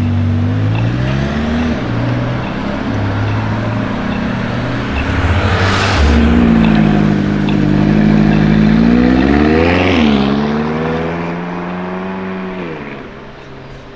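Supercar engine accelerating away. Its pitch climbs and drops back at each gear change, a few times over. It is loudest about six seconds in and fades near the end.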